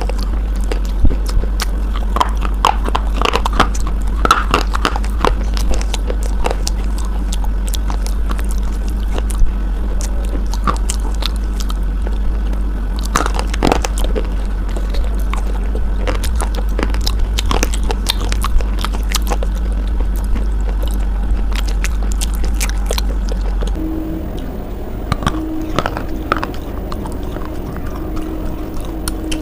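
Close-up crunchy biting and chewing of a hard white bar eaten with paste, many sharp crunches scattered throughout, over a steady low hum that drops away about three-quarters of the way through.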